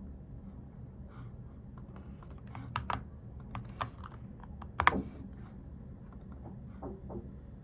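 Typing on a mechanical keyboard: a scattered, irregular handful of key clicks, with a couple of louder keystrokes near the middle.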